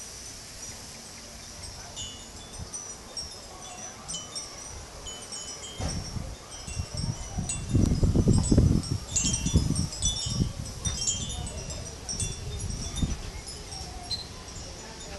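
Wind chimes tinkling irregularly, with a deep low rumble that swells loudest between about six and nine seconds in.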